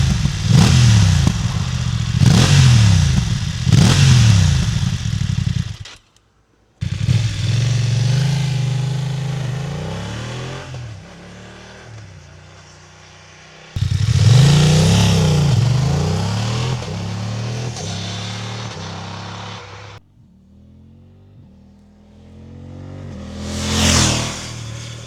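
BMW F900R parallel-twin engine revved in four quick throttle blips, each rising and falling back to idle. After a cut, motorcycles are heard riding off and accelerating, the sound fading with distance, and near the end a bike approaches and passes close by, loudest as it goes past.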